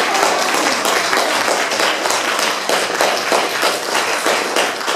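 Audience applauding, many hands clapping at once; the applause cuts off suddenly near the end.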